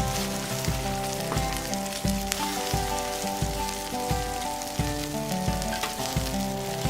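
Food sizzling and crackling on a barbecue grill, under background music with a steady beat.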